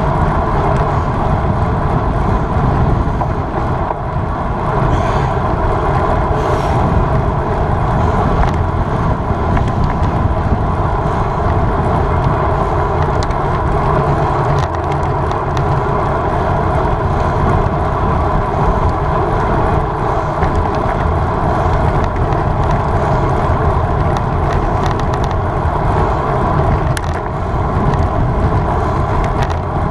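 Wind rushing over the microphone of a camera carried on a road bike ridden at race speed: a steady, loud rumble.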